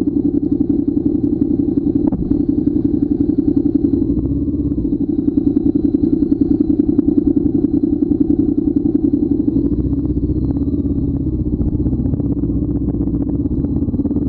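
Motorcycle engine running steadily under way, a continuous fast-pulsing drone heard close up.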